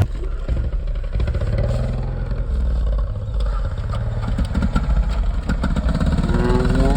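ATV engine running and revving, with a rising pitch near the end.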